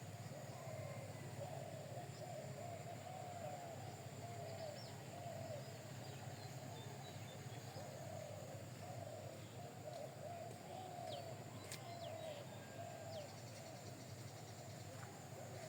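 Pigeons cooing continuously in short, repeated rising-and-falling calls, with a few faint higher chirps from other birds.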